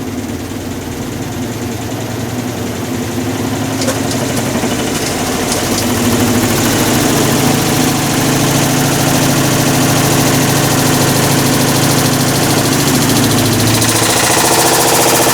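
Hitachi BeatWash BW-D8KV washing machine running with a loud mechanical roar that builds steadily and turns harsher near the end. This is the abnormal noise of its failing clutch, which the owner puts down to overloading with laundry.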